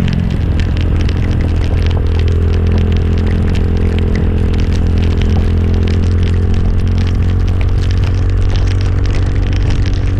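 Motorcycle engine running at a steady pace while riding, with a dense patter of small clicks and crackles over it.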